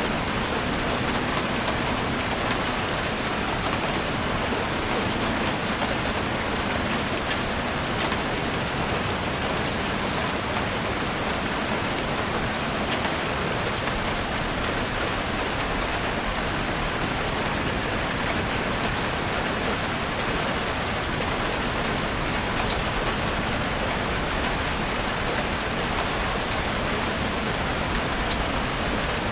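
Heavy rain falling steadily on a roof, a dense even hiss with many fine drop patters.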